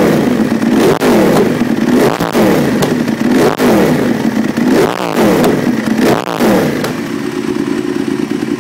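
Ducati 1198's L-twin engine revved through an aftermarket exhaust in quick repeated blips, the pitch rising and falling about every two-thirds of a second, with sharp cracks as the revs drop. About seven seconds in it settles to a steady idle.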